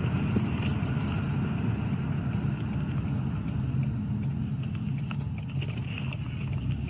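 Patrol car driving: steady engine and road rumble inside the cabin, with a few faint clicks.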